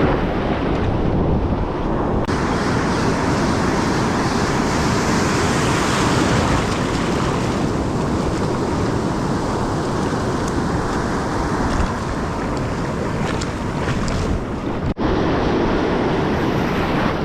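Ocean surf washing onto the beach, steady and loud, with wind buffeting the microphone.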